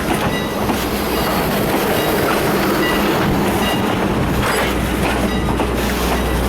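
Steam train rolling along the track, wheels clicking over rail joints, with a faint high wheel squeal now and then.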